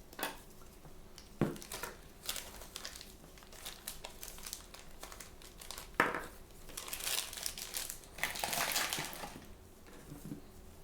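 Plastic blind-bag packaging crinkling and rustling as it is handled and torn open by hand, with two sharp knocks about a second and a half in and again around six seconds, and a longer stretch of steady crinkling near the end.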